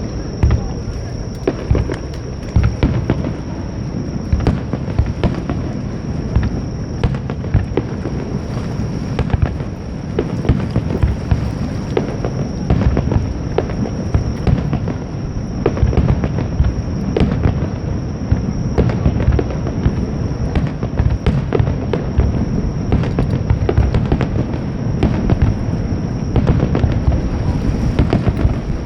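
Fireworks display: a dense, continuous barrage of shell bursts and crackling reports, several a second, over a rolling low rumble of booms.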